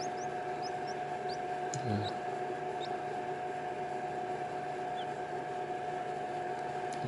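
Faint, short, high rising peeps from hatching baby birds, several in the first few seconds and one more about five seconds in, over a steady hum.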